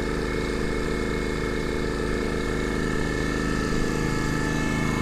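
Water pump running steadily with an even mechanical drone and a steady high whine, pressurizing an aircraft's spray boom so the nozzles can be checked for leaks and plugs.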